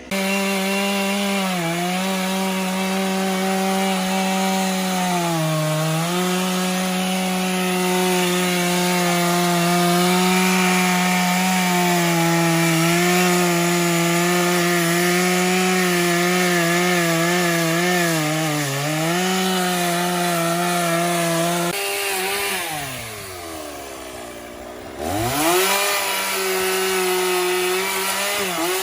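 Chainsaw running at high revs while cutting oak logs, its pitch sagging briefly a few times as the chain bites. About three-quarters through, the throttle is let off and the engine drops almost to idle, then revs straight back up.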